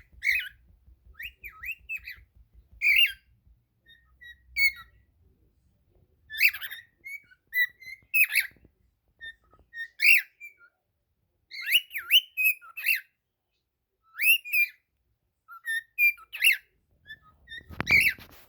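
Cockatiel singing: short whistled notes that slide up and down, strung into repeated phrases with brief pauses. Near the end there is a brief, louder rustle or thump.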